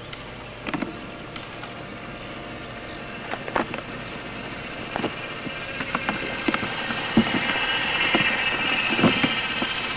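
Off-road roller skis rolling over a gravel road, a steady rolling noise that grows louder toward the end, with irregular sharp clicks and knocks.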